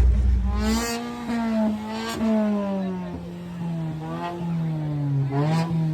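A car engine running at a car meet, its pitch sinking slowly, then rising with short throttle blips about two seconds in and again near the end.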